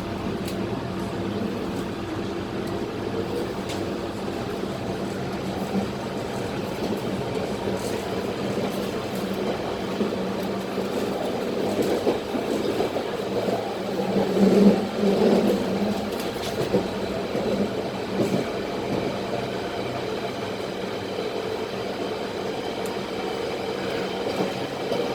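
London Underground Central line 1992-stock train running, heard from inside the carriage: a steady motor hum with several held tones over rumbling wheel-and-rail noise, louder and rougher for a couple of seconds about midway.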